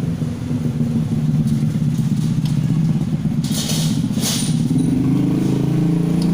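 A motor vehicle engine running steadily, with two short sharp noises a little past the middle.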